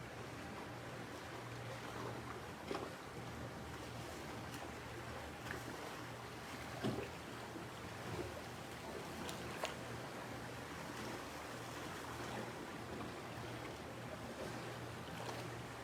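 Steady wash of ocean surf under a low steady hum, with a few faint clicks.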